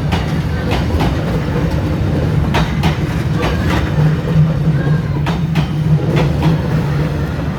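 Train running along the track: a steady low rumble with sharp clacks from the wheels passing over rail joints, coming a few at a time at irregular spacing.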